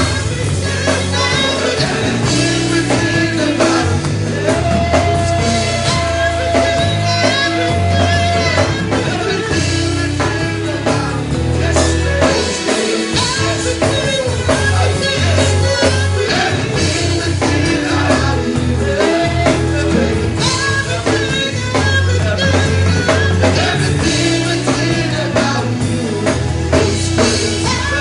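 A live worship band with drums, bass and guitar playing while a singer sings, holding one long note about five seconds in.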